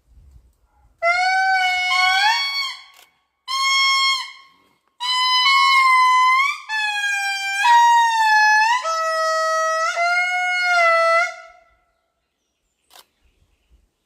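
Indri lemur song: long, wailing calls in three phrases, the first starting about a second in, then a short one, then a long run of notes that slide and step up and down in pitch, fading out near the end.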